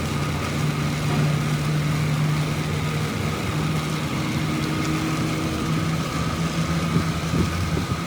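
An engine running steadily at idle, with a low hum.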